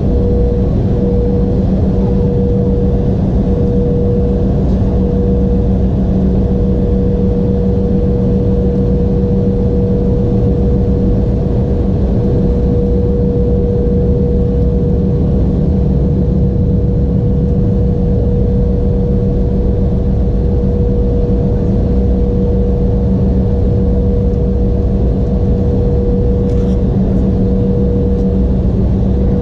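Steady cabin noise of an Embraer E175 airliner with its General Electric CF34 turbofan engines running: an even rush with a constant hum, no change in pitch or level.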